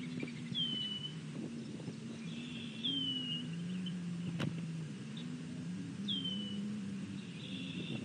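A bird gives a short, clear down-slurred whistle three times, about three seconds apart. Under it runs a low, steady rumble that shifts in pitch, with one sharp click about halfway through.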